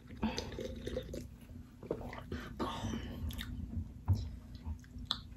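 Close-miked chewing and crunching of loaded nachos, tortilla chips being bitten and eaten in a run of irregular crisp clicks.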